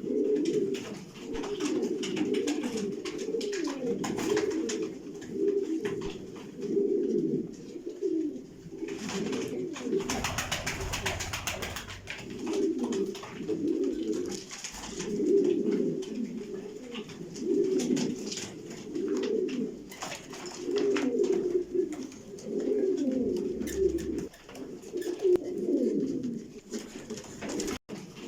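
Domestic pigeons (white checker pigeons) cooing over and over in a small enclosed space, several calls overlapping, with a brief noisy burst about ten seconds in.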